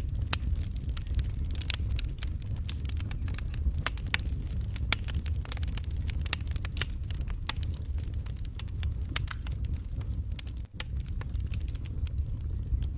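Fire crackling in a fireplace: many irregular sharp pops and snaps over a steady low rumble, with a brief drop-out about ten and a half seconds in.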